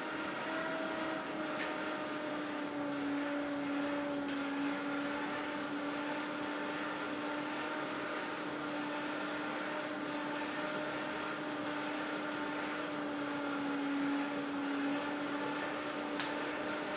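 Steady hum of a running electric motor, its pitch wandering slightly, over a constant hiss, with a few faint clicks.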